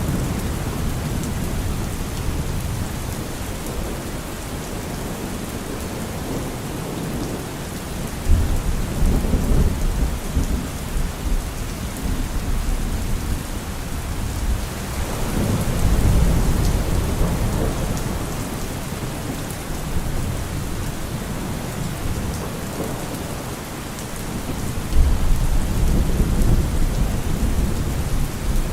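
Steady heavy rain with rolling thunder: low rumbles start suddenly about 8 seconds in and again about 25 seconds in, with a longer swell building in between.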